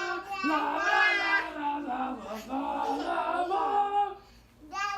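A young child's high-pitched, sing-song voice, wordless and sliding up and down in pitch, that breaks off briefly near the end.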